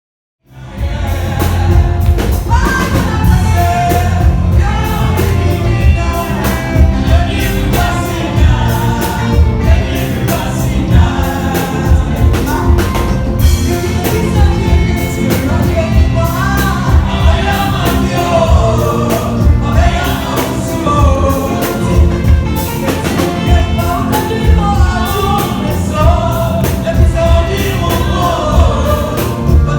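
Gospel praise-and-worship singing by a group of voices over a heavy, steady beat. It starts abruptly about half a second in, after a brief silence.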